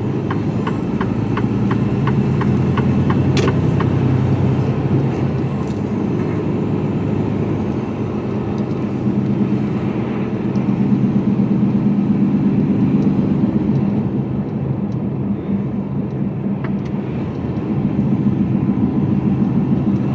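Mercedes-Benz Actros lorry's diesel engine running steadily under way, heard from inside the cab. A regular ticking, about three a second, runs for the first three or four seconds and then stops.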